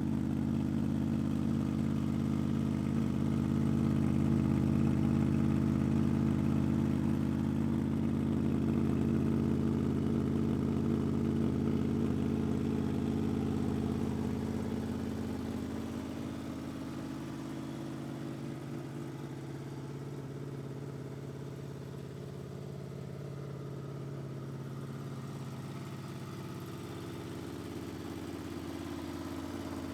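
Honda VFR800's V4 engine idling steadily through a gutted exhaust, just after a cold start from sub-zero temperatures. Its deep rumble is louder for the first half and settles quieter about halfway through.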